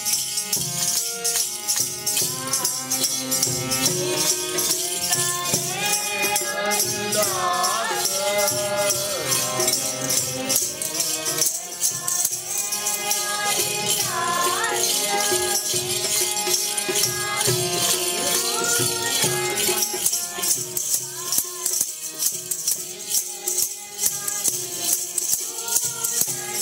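Sikh kirtan: devotional singing over held harmonium tones, with fast, constant jingling rattle percussion. The sung phrases come and go over the steady accompaniment.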